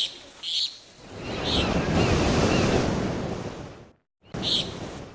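A wave washing in and fading away, with short bird chirps before and after it.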